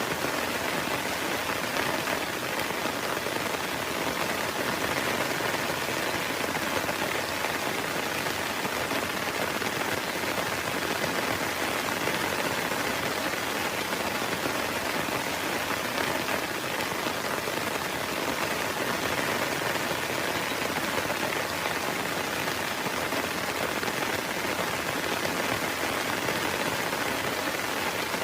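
Heavy, steady rain falling on a camping tent, an even hiss with no breaks.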